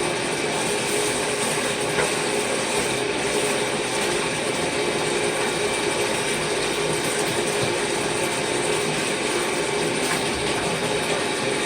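A steady, even rattling noise with a faint hum.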